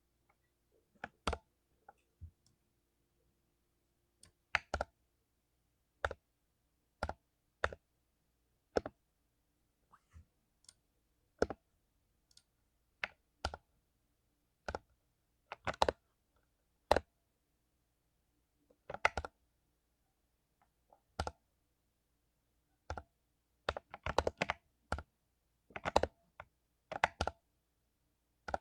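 Key presses on a mechanical keyboard with lubed Cherry MX Silver linear switches: single keystrokes spaced about a second apart, with a few quick runs of several keys near the end.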